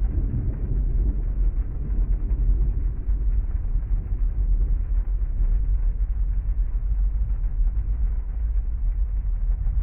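Heavy rain falling on a parked car, heard from inside the cabin as a steady, muffled low rumble.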